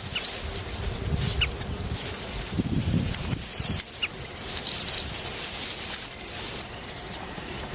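A few short, high bird chirps, about three, over a steady outdoor hiss and a gusty low rumble.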